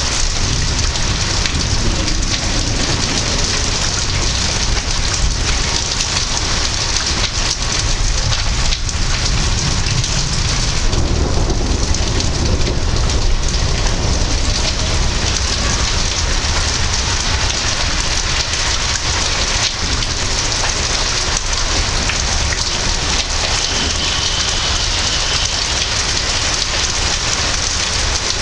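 Heavy rain pouring steadily during a thunderstorm, with a low rumble of thunder swelling a little about halfway through.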